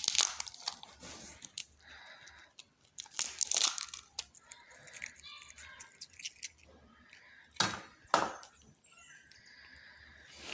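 Kitchen prep sounds from an egg being cracked into a bowl and mixed: scattered clicks and crackles, and two sharp knocks on the bowl about eight seconds in.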